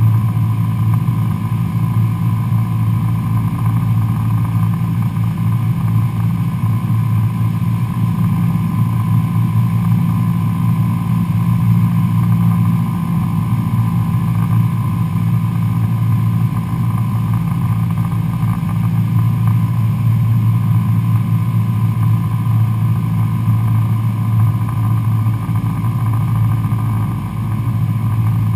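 Cessna 172SP Skyhawk's four-cylinder Lycoming IO-360 engine and propeller running steadily in flight, a constant drone.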